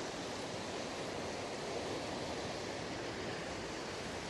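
Steady rushing of a fast-flowing creek, an even wash of water noise without pauses.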